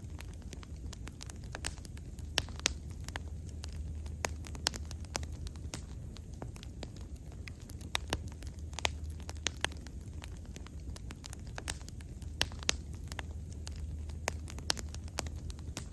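Wood bonfire burning, with irregular sharp crackles and pops over a steady low rumble of the flames.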